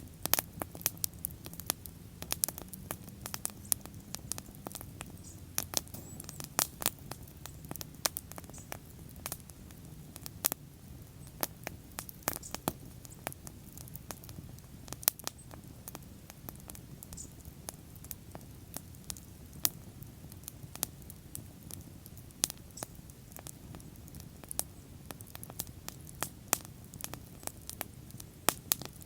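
Wood bonfire burning: irregular sharp crackles and pops, often several a second, over a low steady rumble of the flames.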